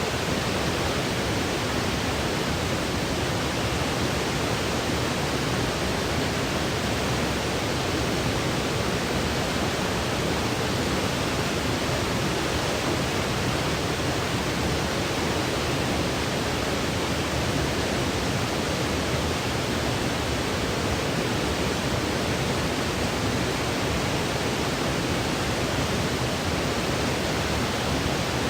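Steady white noise for sleep: an even, unchanging hiss with no breaks or variation.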